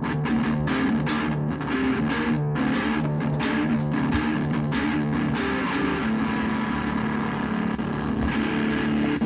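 Donner DMT-100 electric guitar played through an amp: a run of picked notes, settling into longer held notes about six seconds in.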